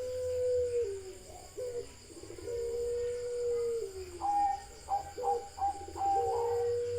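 A bird calling in repeated phrases: a long steady note that slides down at its end, alternating with a run of short, higher notes.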